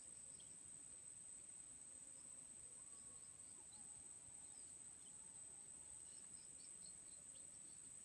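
Faint, steady high-pitched insect drone, cricket- or cicada-like, with a few faint, short high chirps from birds scattered through it.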